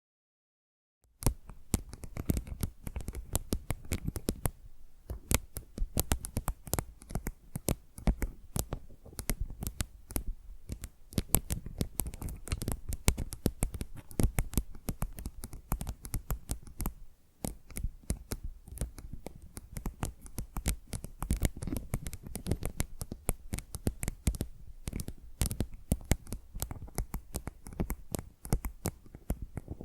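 Fingernails tapping and scratching on a tile, close-miked: a dense, irregular run of sharp clicks and taps with scratchy rubbing between them, starting about a second in after a moment of silence.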